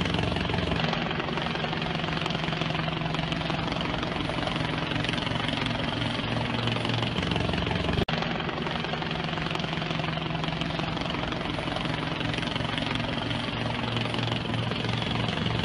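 Steady aircraft engine drone with a low hum, broken by an abrupt cut about eight seconds in, after which the same drone carries on.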